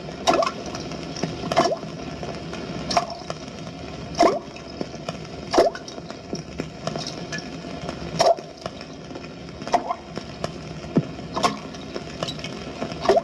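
Water drops falling one at a time in a slow, even rhythm, about one every second and a half. Each drop lands as a short, hollow plop.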